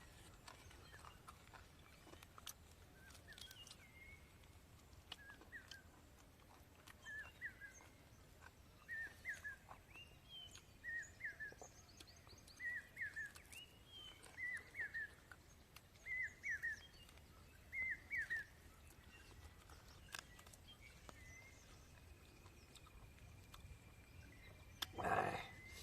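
A bird calling outdoors, a short two-note chirp repeated about every one and a half to two seconds over faint background noise. A brief louder noise comes near the end.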